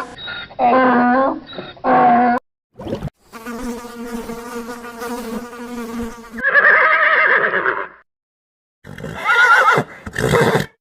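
A string of short animal calls spliced one after another, with abrupt cuts and brief silences between them. Two pitched calls open it, a steady buzzing hum runs from about three to six and a half seconds, and a loud harsh call and two wavering calls follow.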